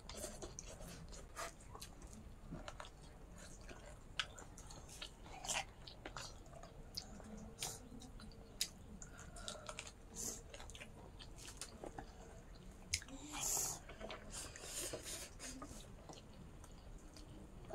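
Close mouth sounds of eating pork, rice and greens by hand: faint chewing with small wet smacks and clicks at an irregular pace, and one brief louder noise about thirteen seconds in.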